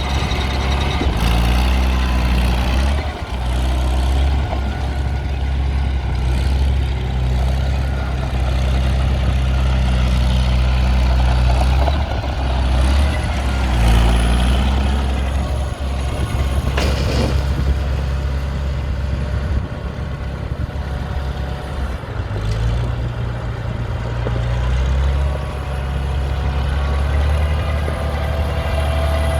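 1960 Farmall 560 tractor's six-cylinder diesel engine running steadily, its speed shifting a few times. There is one brief sharp sound about two-thirds of the way through.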